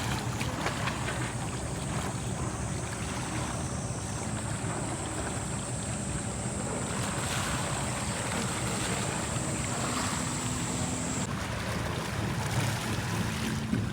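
Sea waves washing on the shore with wind on the microphone, under a low steady hum. A thin, steady high-pitched tone runs from about a second in and stops about eleven seconds in.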